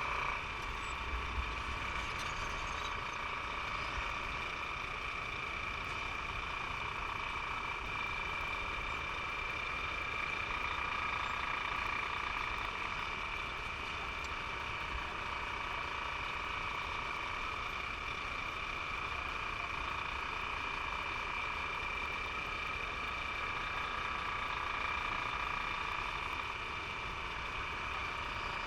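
Motorcycle ambulance running at a steady pace, a low rumble with an unchanging high whine over it.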